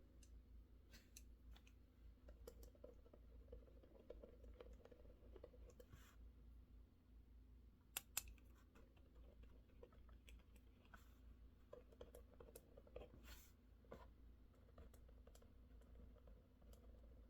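Faint, scattered keystrokes on a mechanical keyboard, a few keys at a time rather than steady typing, with two sharper clicks in quick succession about eight seconds in.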